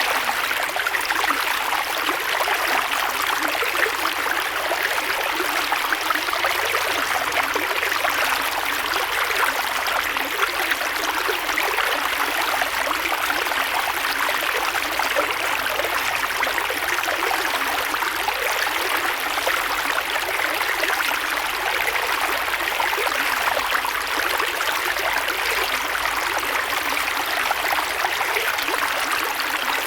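Creek water flowing steadily over stones, a continuous rushing and babbling with no breaks.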